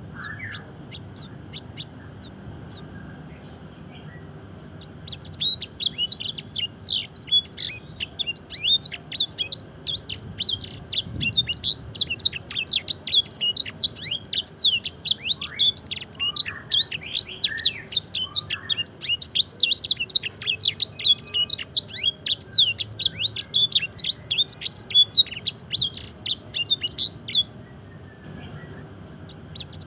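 A canary singing: a few scattered chirps, then from about five seconds in a long, fast run of high, quick down-sweeping notes that stops shortly before the end and starts again right at the end. It is a canary tutored in blackthroat and Edelsänger-style phrases.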